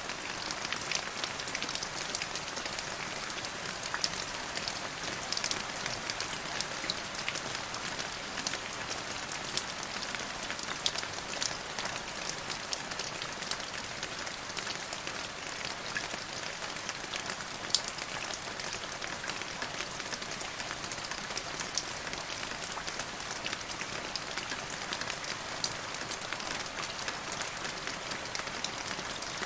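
Steady rain falling and pattering on surfaces, with many individual drops ticking and occasional louder drops.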